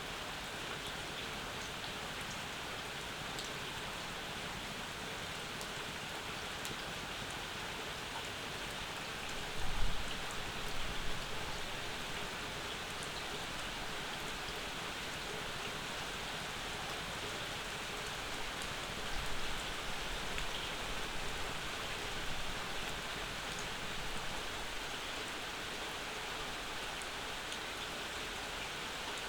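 Steady summer rain falling, an even dense hiss with scattered drop ticks. There are two brief low swells, one about ten seconds in and another around twenty.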